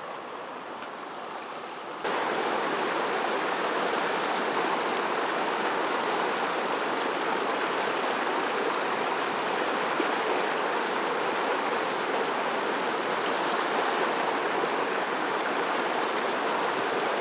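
Mountain stream water rushing over rocks, a steady noise that gets louder about two seconds in.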